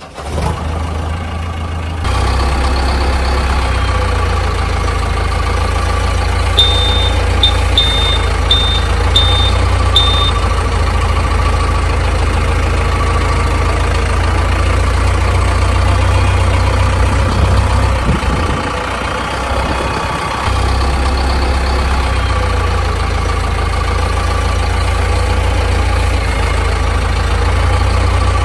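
A large engine idling with a steady low rumble, dipping briefly about two-thirds of the way through. About seven seconds in come six short, evenly spaced high beeps, like a reversing alarm.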